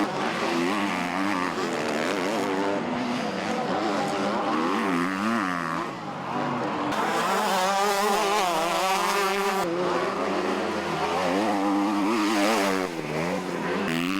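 Motocross bikes racing, their engines revving up and down as the riders work the throttle and shift through the gears. About seven seconds in the engine noise grows louder and fuller for a few seconds, like a group of bikes passing close, then thins again.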